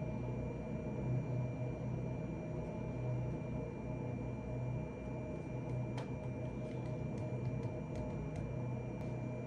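Steady low room hum with a faint constant high whine, and a scatter of light, faint clicks in the second half.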